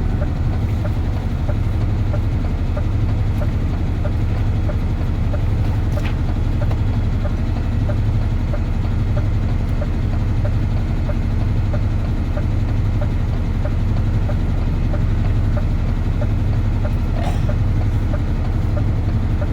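DAF truck's diesel engine running steadily under way, a constant low drone with an even pulse.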